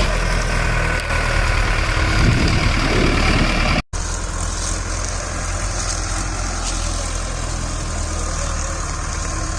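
Diesel tractor engine running steadily at a low, even pitch, with a brief swell about two to three seconds in. The sound drops out sharply just before four seconds in and comes back as a steady tractor engine running.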